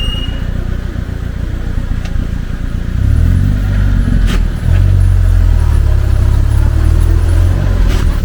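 Engine of an open tour vehicle driving along a dirt road, picking up speed and getting louder about three seconds in, then running steadily. A few light clatters ride over the rumble.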